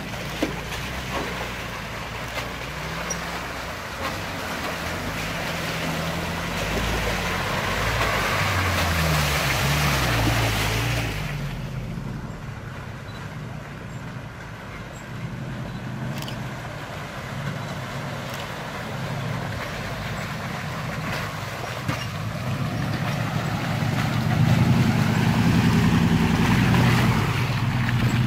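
Off-road 4x4 vehicle driving over rough ground, its engine revving up and down as it works. A rushing noise rides over it for the first ten seconds or so, then drops away. The engine grows louder near the end.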